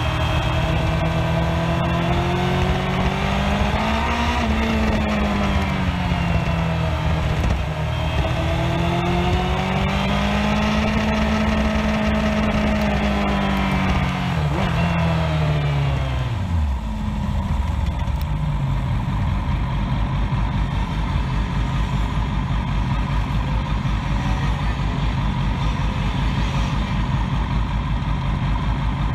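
Motorcycle engine heard right beside its exhaust, its pitch rising and falling twice as the bike rides and slows. It drops away about two thirds of the way in and then idles steadily with the bike at a standstill.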